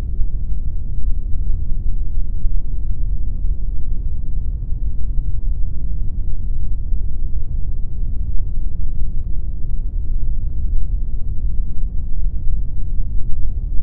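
Pink noise: a steady, even rushing hiss, weighted heavily toward the low end.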